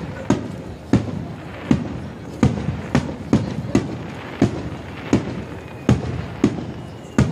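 Aerial firework shells bursting in a rapid-fire barrage: about a dozen sharp bangs, spaced a half second to a second apart, each trailing off into a rumble.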